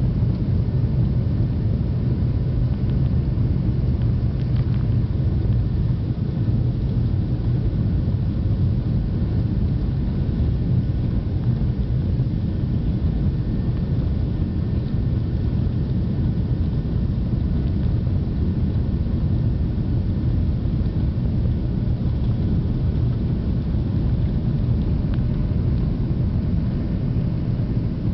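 Jet airliner's engines heard from inside the passenger cabin during the takeoff: a steady, even low rumble with a faint steady whine above it.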